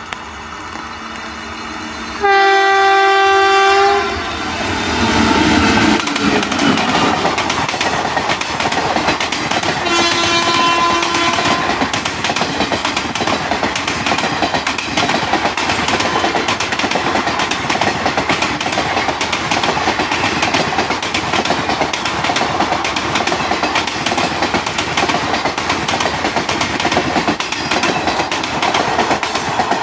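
Indian Railways WAP-4 electric locomotive sounding its horn as it runs through at full speed: a loud blast about two seconds in, then a fainter, lower one about ten seconds in. The passenger coaches then rush past with a continuous fast clickety-clack of wheels over the rail joints.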